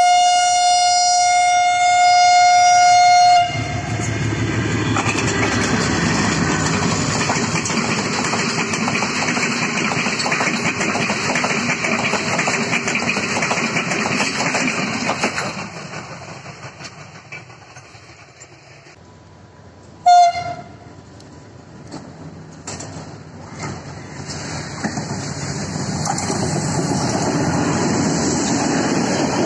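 Diesel locomotive horn giving one long single-pitched blast, then a passenger train running past with its wheels clattering over the rails, fading away. About twenty seconds in a short horn blast sounds, and then an Alstom Class M9 diesel locomotive runs past with the same rumbling clatter.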